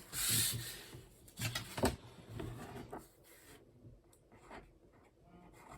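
Fine-liner pen nib scratching across paper in short writing strokes, with a couple of small taps and knocks about one and a half to two seconds in.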